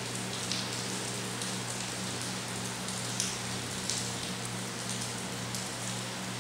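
Steady rain falling, an even hiss with a few sharper drop hits now and then.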